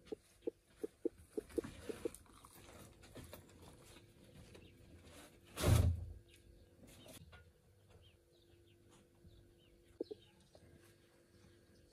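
A bird calling in a quick run of about eight short low notes, then a single loud thump a little before six seconds in, and one more short call near ten seconds.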